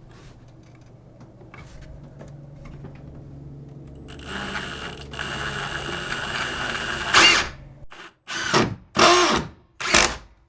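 Power drill driving a screw into wooden blocking: the motor runs steadily and gets louder from about four seconds in, then gives four short, loud bursts near the end as the screw is driven home.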